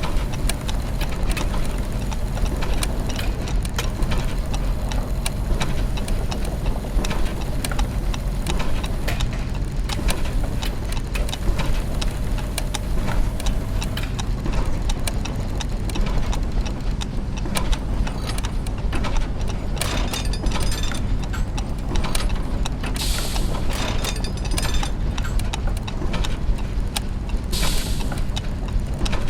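Clockwork and gear mechanisms: dense, irregular clicking and ticking of gears and ratchets over a steady low machine hum, with two short hisses of about a second each in the later part.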